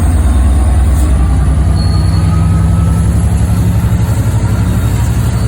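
Large diesel locomotive engine running close by with a deep, pulsing throb. About a second and a half in, its note steps up as the engine throttles up.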